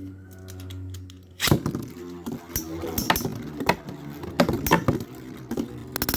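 Beyblade spinning tops in a stadium: a steady low whir for about the first second, then many sharp plastic clicks and knocks as the tops clash.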